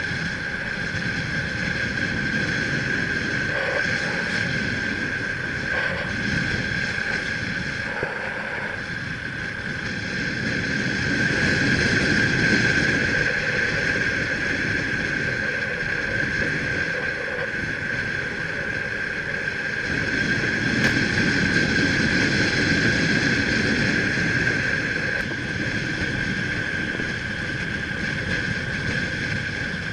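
Motorbike running along at speed, with wind rumbling on the microphone and a steady high whine over it.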